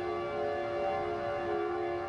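Outdoor tornado warning siren sounding a steady chord of several held tones that waver slightly in loudness, signalling a tornado warning in effect.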